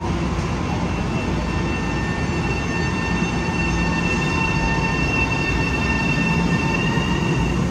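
Long Island Rail Road electric train moving along the platform, a steady rumble with a high-pitched squeal held over it that stops near the end.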